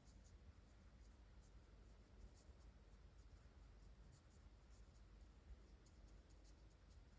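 Faint, scattered short scratches of a brush-tip watercolour marker stroking across hot-press watercolour paper, over a low steady room hum.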